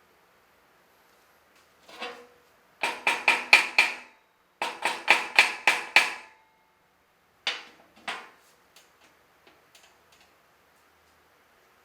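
Hammer striking metal in two quick runs of about six ringing blows each, then two single blows and a few light taps near the end.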